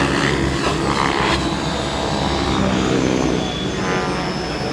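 Electric radio-controlled aircraft in flight: the motors and rotors hum steadily with several even tones, and the pitch shifts briefly near the end.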